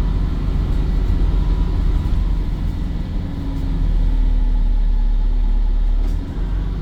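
Volvo B5 bus running, a steady low rumble, with a steady hum joining in about halfway through and stopping shortly before the end.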